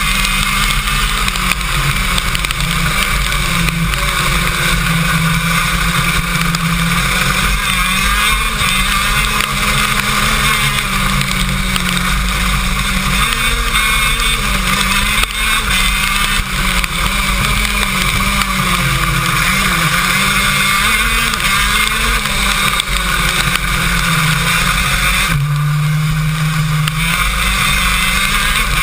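KZ2 kart's 125cc two-stroke engine, heard onboard, running hard through a lap: its pitch rises and falls again and again as it accelerates and lifts for corners, with a steadier held note near the end.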